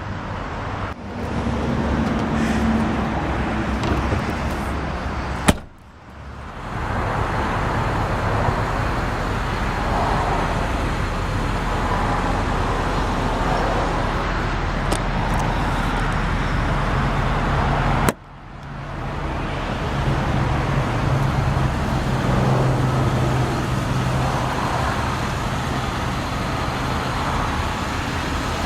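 Steady road traffic noise, with a low engine hum rising in the second half. Two sharp knocks, about six seconds in and again near the middle, are each followed by a brief drop in the background noise.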